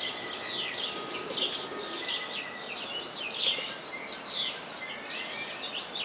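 Small birds chirping: a busy stream of quick, overlapping downward chirps.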